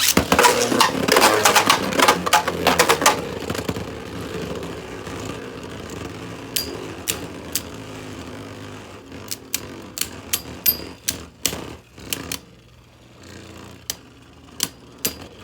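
Two Beyblades, a custom 3D-printed Agèma Ares and a Guilty Longinus, spinning and clashing in a stadium. Rapid, loud collisions come in the first three seconds, then a fading whir with scattered sharp hits that die out about twelve seconds in as the tops slow and stop. A few last clicks come near the end.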